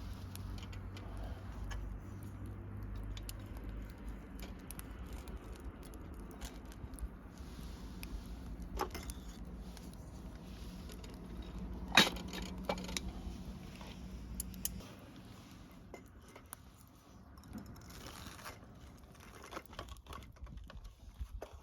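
Scattered light clicks and clinks of small hard objects being handled, with one sharp knock about halfway through, over a low steady hum that fades out about three-quarters of the way in.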